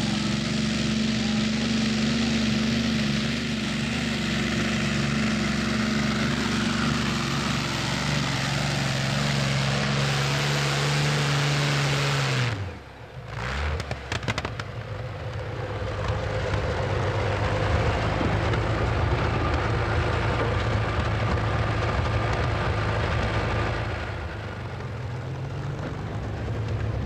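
Competition pulling tractor engine running hard at high revs, its pitch sagging before the sound cuts out about twelve seconds in. After a few clicks a louder, rougher engine run follows and eases off near the end.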